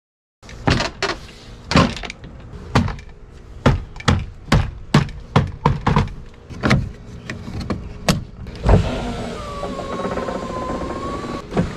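A string of sharp, irregular knocks and clicks from work on the door. About three-quarters of the way through, a newly fitted power window motor starts and runs steadily with a whine whose pitch drifts slightly as it drives the glass.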